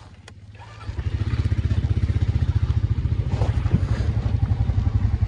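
ATV engine idling quietly, then opened up about a second in and pulling away, a loud, low, evenly pulsing engine note held steady under throttle. A brief click comes just before it picks up.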